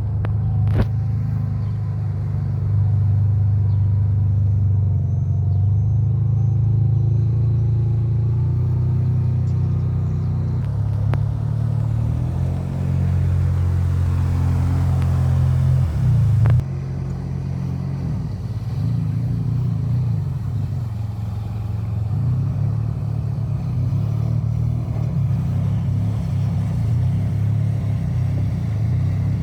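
Jet ski engine running steadily with a low drone that shifts in pitch as the throttle changes, with a sudden change about two-thirds of the way through.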